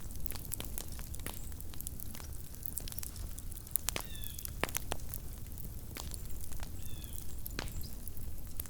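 Small campfire crackling, with frequent sharp pops and snaps over a low steady rumble. Twice, about four and seven seconds in, a brief high chirp sounds.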